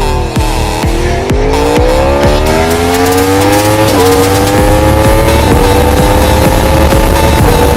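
2015 Yamaha R1M's 998 cc crossplane inline-four accelerating hard, its pitch climbing steadily through the gears with short breaks at the upshifts about four, five and a half and seven and a half seconds in. Music beats are heard over the start.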